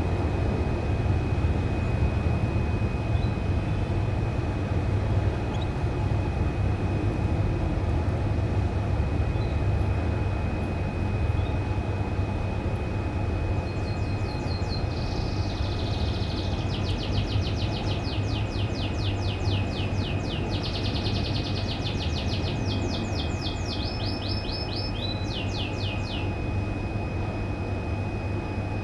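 Domestic canary singing about halfway through: fast rolled trills and rapid runs of repeated high notes for about twelve seconds. Under it runs a steady low rumble, the loudest sound, with a faint steady high tone.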